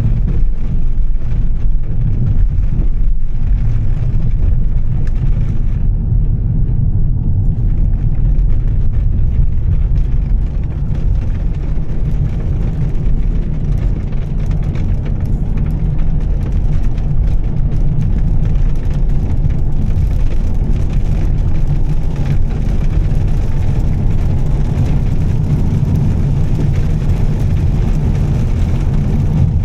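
A Volvo S60 T6's turbocharged straight-six with a Heico exhaust, running steadily on the move as a low drone, mixed with road noise.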